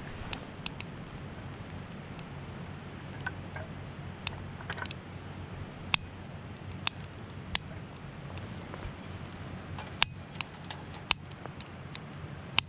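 Wood campfire crackling, with about a dozen sharp, irregular pops and snaps over a steady low background rumble.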